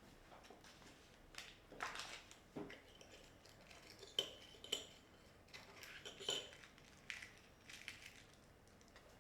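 Cutlery clinking and tapping against crockery in scattered light strokes, with two or three brighter ringing clinks about four to six and a half seconds in.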